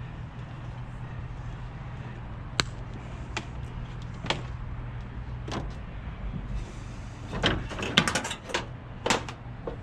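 Scattered sharp clicks and knocks of scrap pieces being handled, turning into a quick run of clattering knocks near the end, over a steady low hum.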